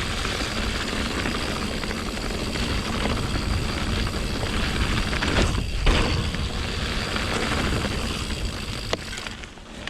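Riding noise from a mountain bike on a rocky trail: wind rumbling on the camera microphone, Pirelli Scorpion tyres rolling over rock and roots, and the bike rattling. The noise drops off about nine seconds in as the bike slows.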